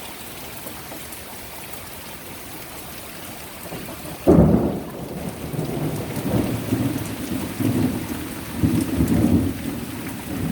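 Heavy rain falling steadily, then about four seconds in a sudden loud crack of thunder that rolls on as low rumbling, swelling again twice.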